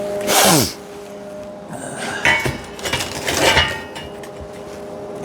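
Metal pieces being handled on a welding project: a short loud scrape with a falling pitch near the start, then several clanks and clinks with a brief ring about two to four seconds in.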